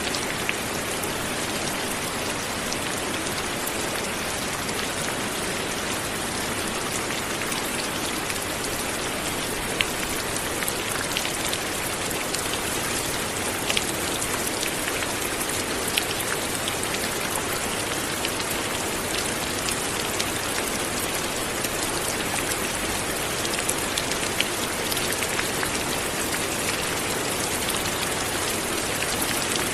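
Steady light rain falling, a dense even patter with the sharp ticks of single drops striking a surface.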